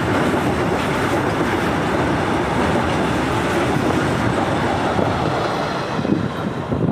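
BTPN oil tank wagons and the guard's brake van of a freight train rolling past, their wheels giving a steady rumble and rattle on the rails.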